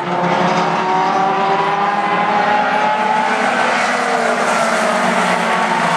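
Mini stock race cars running laps on the oval, their engines droning together with pitch that slowly drops and then rises again as they pass.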